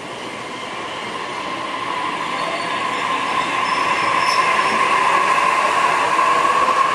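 Joban Line E531 series electric train pulling out of the platform, growing steadily louder as it picks up speed, with a high steady whine over the rolling noise.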